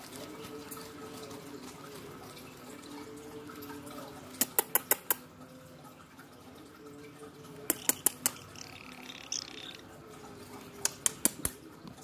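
Sharp clicks in quick runs of four or five, three times, over a faint steady hum.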